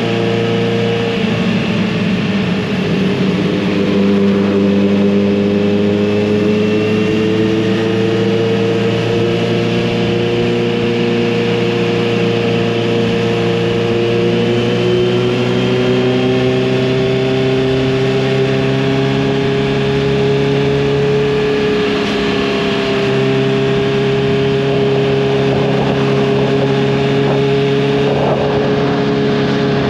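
Kawasaki Z900RS inline-four engine and exhaust running on the move at fairly steady revs, the pitch drifting gently up and down, with a brief dip about two-thirds of the way through.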